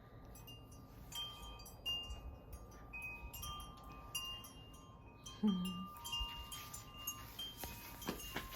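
Wind chimes ringing in the wind: clear tones struck at irregular moments, each ringing on and overlapping the next.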